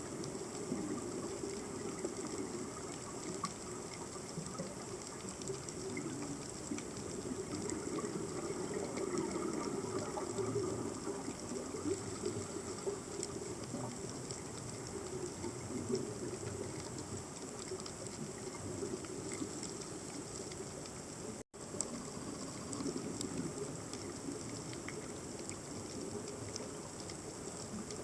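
Underwater ambience picked up by a submerged camera: a steady wash of water noise sprinkled with faint crackling clicks. It drops out for an instant about two-thirds of the way through.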